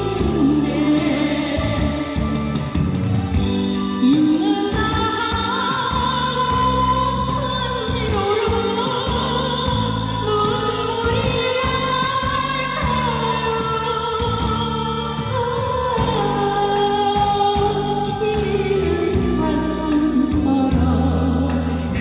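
A woman singing a slow Korean ballad with a wavering vibrato, over instrumental accompaniment with a steady bass.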